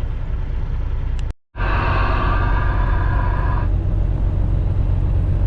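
Semi-truck engine and road noise heard from inside the cab as a steady low rumble. It cuts out completely for a moment about a second and a half in, then a higher whine rides over the rumble for about two seconds.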